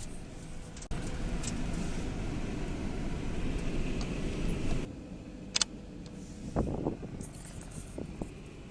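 Van running, heard from inside, as a steady low rumble. The level drops about halfway through, and a few short clicks and knocks follow.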